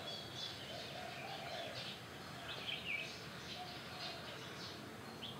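Birds chirping in the background: short high calls, several falling in pitch, with a soft low cooing call now and then.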